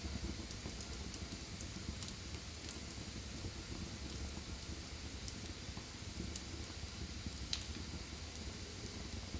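Wood fire burning in a fireplace: a steady hiss and low rumble with scattered crackles, one sharper pop about seven and a half seconds in.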